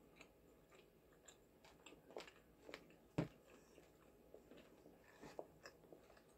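Quiet eating sounds: faint, scattered clicks and mouth noises of someone biting and chewing a sauced chicken wing, with one sharper click a little over three seconds in.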